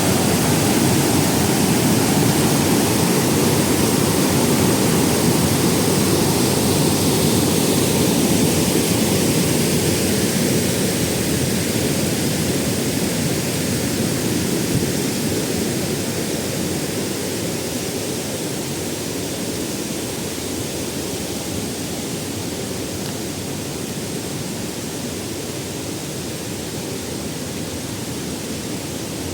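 A waterfall: falling water in a steady, even rush that grows gradually quieter through the second half.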